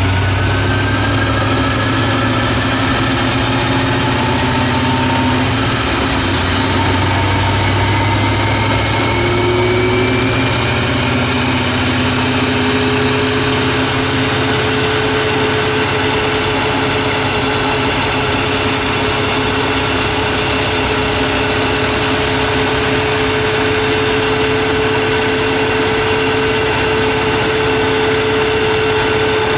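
Ford Mustang GT's 5.0-litre V8 running steadily on a chassis dyno, its pitch creeping slowly upward.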